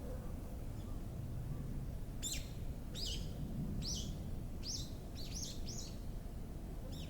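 A songbird giving a run of short, high chirps, each sweeping quickly downward, about two a second for several seconds, with one more near the end. A steady low rumble of outdoor background noise runs underneath.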